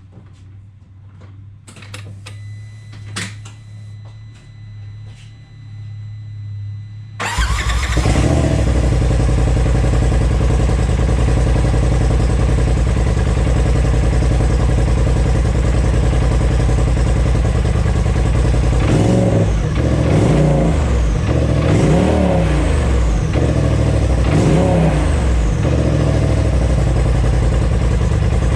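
A Polaris RZR Pro XP's turbocharged engine cranks and starts about seven seconds in, after a few clicks, and idles through a Gibson aftermarket exhaust. In the last third there are four or five quick throttle blips, each rising and falling in pitch, with the stock turbo diverter (blow-off) valve venting as the throttle snaps shut.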